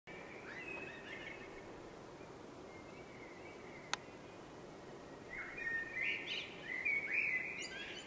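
Wild birds singing: a few chirps near the start, then a louder run of song phrases in the second half, over steady background noise. A single sharp click comes about four seconds in.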